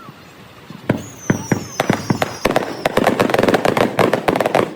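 Fireworks going off in a sped-up recording: sharp bangs start about a second in and quicken into dense crackling, with falling whistles early in the barrage.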